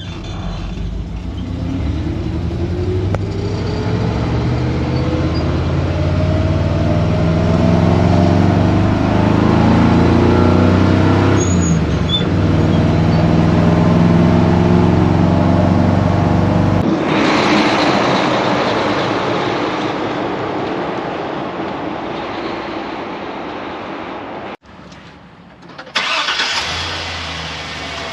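A vehicle engine pulling under acceleration, its pitch climbing slowly for about twelve seconds. Then the engine tone drops away suddenly and a steady rushing hiss takes over, broken by a brief sudden dip near the end.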